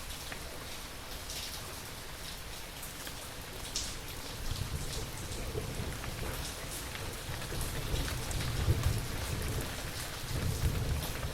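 Steady rain falling with scattered drop hits, and thunder rumbling low from about four seconds in, swelling in waves and loudest around eight to nine seconds and again near the end.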